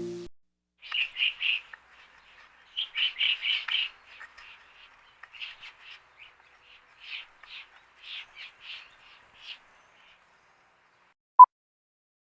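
A bird chirping: quick runs of short, high chirps in bunches that thin out and stop after about ten seconds. A short beep follows near the end.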